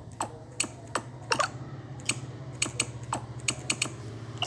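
Irregular sharp clicks and taps, about two or three a second, from a Samsung Galaxy J7 smartphone being tapped through its settings menus, over a steady low hum.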